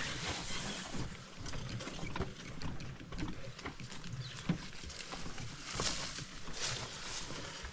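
Footsteps and rustling of brush along a portage trail as a canoe and gear are carried, an uneven run of soft scuffs and swishes with a few louder swishes near the end.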